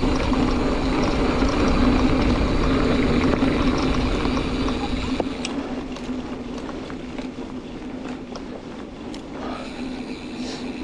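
Mountain bike rear hub freewheeling as the bike coasts, a steady, pretty loud buzz from the ratcheting freehub, over a low rumble that eases off about halfway through, with a few light ticks later on.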